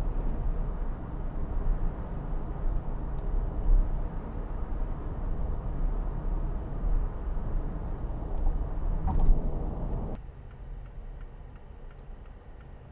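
Mazda2's 1.5-litre SKYACTIV-D turbodiesel four-cylinder and road noise, heard from inside the cabin while driving. About ten seconds in, the sound drops suddenly as the idle-stop system shuts the engine off at a standstill, leaving faint, evenly spaced ticking.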